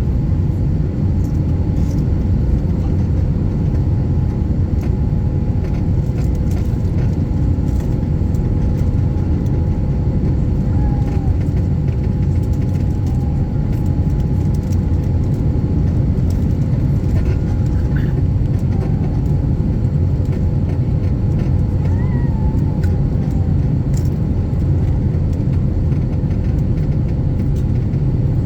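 Airbus A350-900 cabin noise: a steady low rumble from the Rolls-Royce Trent XWB engines and airflow, heard inside the cabin, with a faint steady hum on top.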